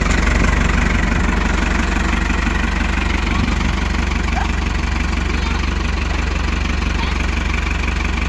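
Tractor engine running steadily with a deep, even hum.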